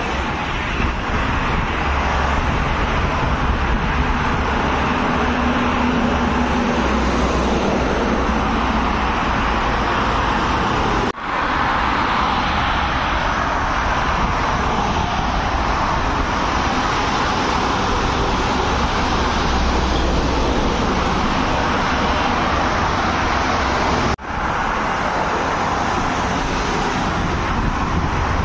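Steady highway traffic: tyre roar and engine rumble of passing vehicles on a multi-lane road. It drops out abruptly for an instant twice, about 11 and 24 seconds in.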